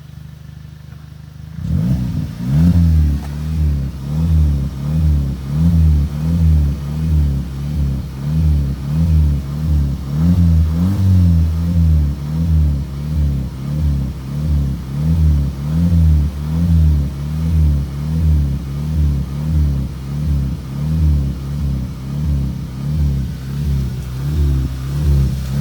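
Volkswagen car engine running low briefly, then revved repeatedly by pumping the gas pedal. The revs rise and fall about once a second.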